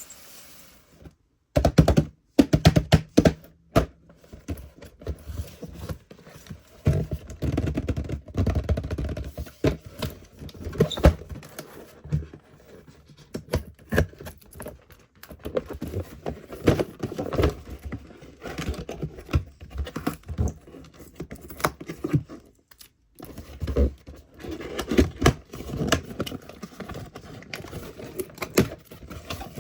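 Die-cast Tomica mini cars and a plastic toy truck being handled, with rapid irregular clicks, taps and clatter over a low rolling rumble. There is a brief pause about 23 seconds in.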